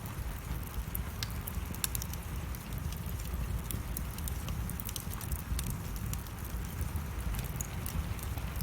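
Wood fire burning in a fireplace: many sharp irregular crackles and pops over a steady low rumble.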